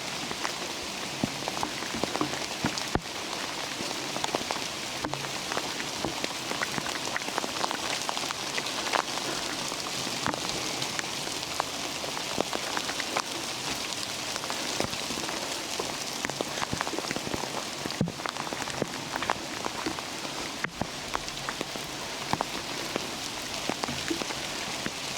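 Steady rain falling in a redwood forest: an even hiss with many separate drops striking at irregular moments.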